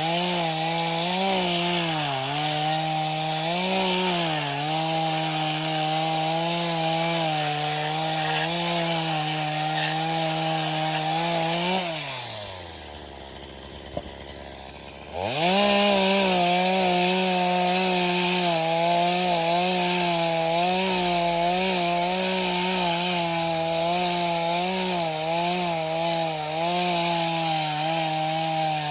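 Two-stroke chainsaw carving a pumpkin, running at high revs with the pitch wavering slightly under load. About twelve seconds in it drops back to idle for roughly three seconds, then revs up again and runs steadily.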